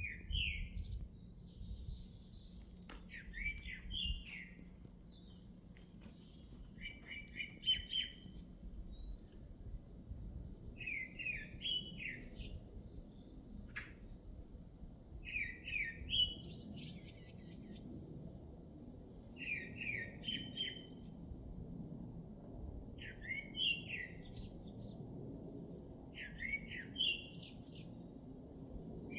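A songbird singing a short phrase of several quick chirps, repeated about every four seconds, with thin higher-pitched chirps between phrases and a steady low rumble underneath.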